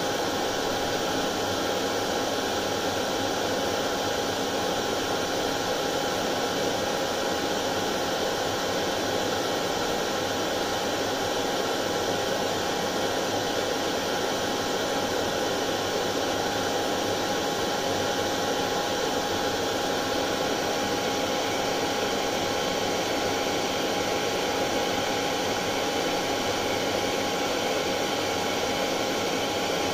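Hair dryer running continuously: an even, unchanging rush of air with a steady motor tone under it.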